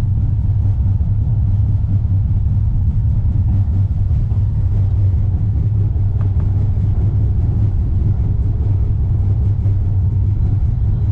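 Steady low rumble of a Wuppertal Schwebebahn suspension railway car in motion, heard from inside the car as it runs along its overhead track.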